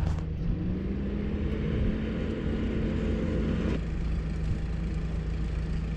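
An engine running steadily, with a second noisy sound carrying a slowly rising tone over it that stops a little before four seconds in.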